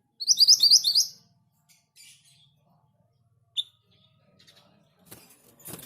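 Orange minivet singing: a quick, loud run of about four rising whistled notes lasting under a second, then a single short note a few seconds later.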